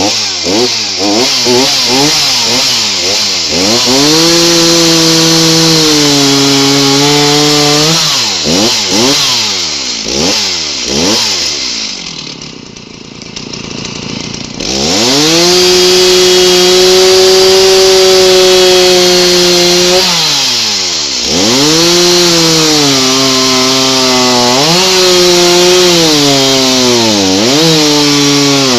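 Two-stroke gasoline chainsaw running and trimming along a blue spruce log, its engine pitch rising and falling repeatedly as the throttle is worked and the chain bites into the wood. Midway it drops back to a quieter idle for a couple of seconds, then runs at high revs again with brief dips.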